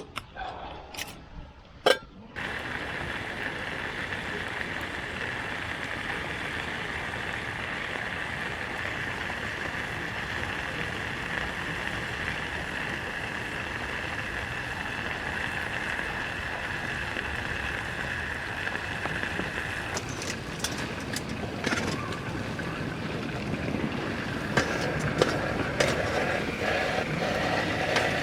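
Meat sizzling in a hot grill pan over a campfire: a steady hiss that starts suddenly about two seconds in, with scattered clicks and knocks joining near the end.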